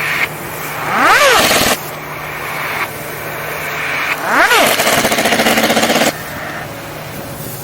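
Pneumatic impact wrench spinning up twice with a quick rising-then-falling whine. The second time it hammers in a fast rattle, then cuts off suddenly. A steady low machinery hum runs underneath.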